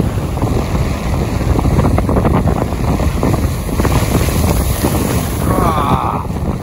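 Strong wind buffeting the microphone in a heavy, continuous rumble, with rain pattering. A brief higher-pitched sound comes near the end.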